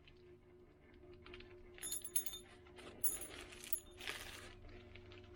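Small metal lathe parts clinking and packaging rustling as they are handled, in a few short bursts beginning about two seconds in, over a faint steady hum.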